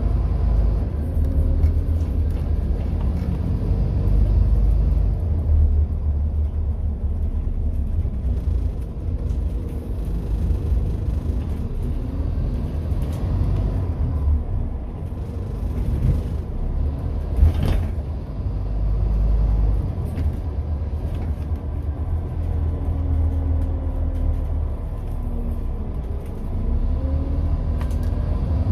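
Scania N230UD double-decker bus running under way: a steady low rumble with the engine note rising and falling several times. A single sharp knock or rattle comes about two-thirds of the way through.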